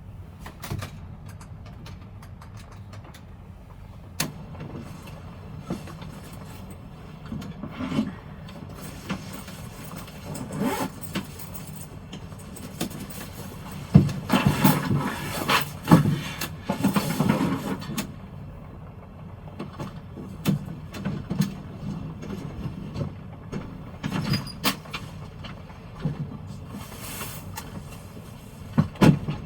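Typhoon wind and heavy rain against a small truck camper: a steady low rumble with scattered sharp taps and irregular louder swells, the strongest gusts about halfway through.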